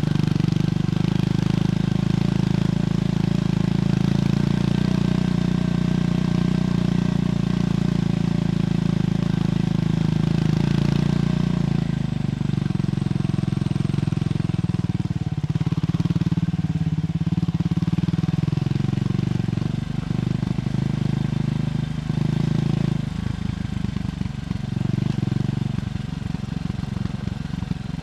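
Triumph Scrambler 400X's single-cylinder engine heard through its stock exhaust while riding. It runs at a steady note for about twelve seconds, then the engine pitch drops and wanders up and down, and it turns choppier and uneven in the last few seconds.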